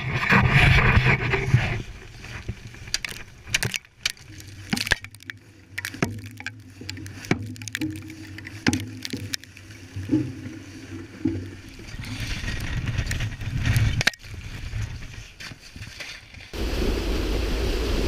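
Ship sounds: a low steady engine hum under scattered sharp knocks and cracks, changing abruptly about sixteen seconds in to steady wind and sea noise.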